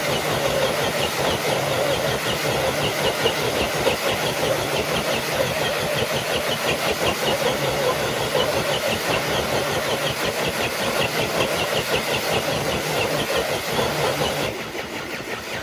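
Electric RC crawler truck's motor and gears whining with a fast ticking rattle under load as it drags a weighted sled; the motor drops off about fourteen and a half seconds in.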